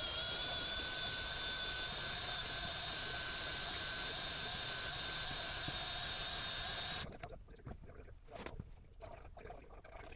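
A steady, loud hiss of a pressurized jet, with a faint whistle in it, that cuts off suddenly about seven seconds in, followed by faint handling clatter.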